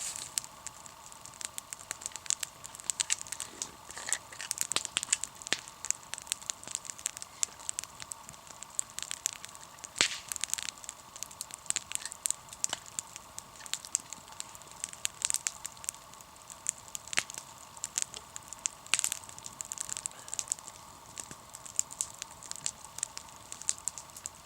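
Wood campfire crackling with irregular sharp pops, a louder pop about ten seconds in.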